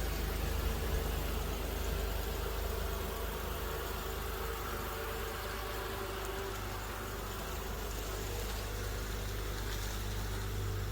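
Steady low engine and road rumble of a 2016 Honda Odyssey minivan heard from inside the cabin on a test drive, with no brake squeal after the front calipers were greased.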